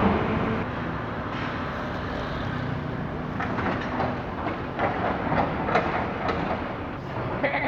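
A moving vehicle rumbling steadily, with a run of short clacks in the second half.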